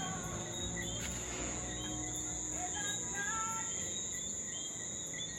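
Steady high-pitched insect chorus, like crickets, with scattered short chirps over it.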